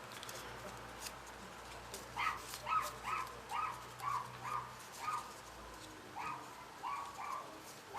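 A series of short, high-pitched animal calls, about two a second, starting about two seconds in and going on with brief pauses.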